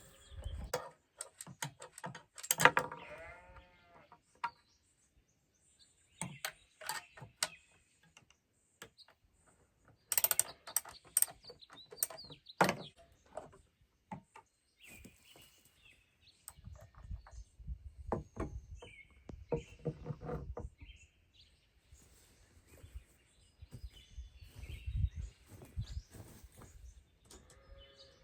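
Scattered clicks, knocks and rattles of a chainsaw and its parts being handled, loudest in two clusters near the start and about ten seconds in. Birds chirp now and then through the second half, over a low rumble.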